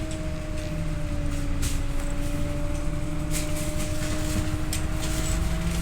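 Inside a Scania OmniLink I bus under way: steady engine and drivetrain rumble with a level mechanical whine on top, and a few light rattles of the body and fittings.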